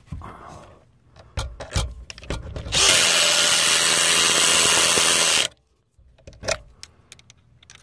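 Power drill running steadily for about three seconds, driving a fastener down on the roof vent, then stopping suddenly. A few light knocks and clicks of handling come before and after.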